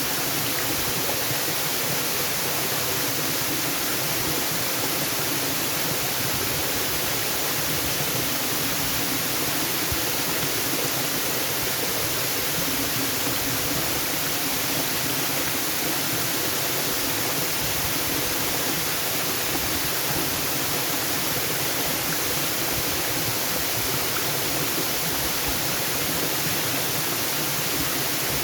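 Waterfall, water falling and rushing in a steady, unbroken roar of even noise that never changes.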